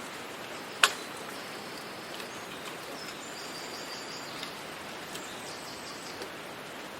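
Forest ambience: a steady soft hiss of breeze with small birds chirping and trilling, high and thin. There is one sharp click about a second in.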